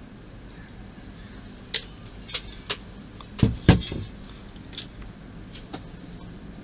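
Light knocks and clicks of model kit parts being handled and fitted into the helicopter fuselage, about seven separate taps, with the loudest pair about three and a half seconds in.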